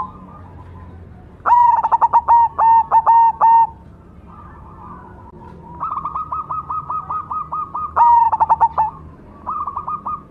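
A cemani zebra dove (perkutut) singing its cooing song: quick runs of short, clear notes in three bouts. The loudest run starts about a second and a half in, and another peaks near the eighth second.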